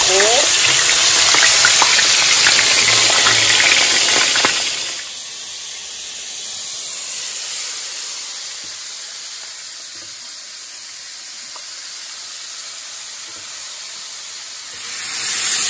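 Thin-sliced potatoes and onions sizzling in hot oil in a cast iron skillet, a dense hiss with small crackles. About five seconds in it drops to a quieter, steady frying of battered deer meat in oil, and loud sizzling returns near the end.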